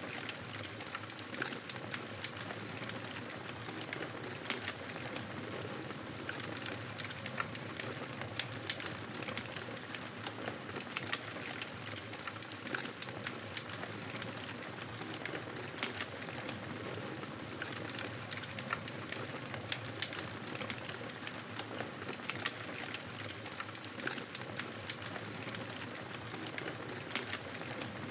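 Fireplace fire crackling: many small sharp pops scattered over a steady hiss.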